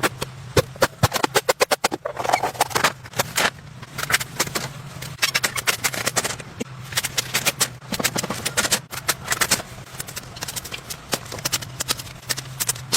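A run of irregular knocks and taps, some in quick bursts, over a steady low hum.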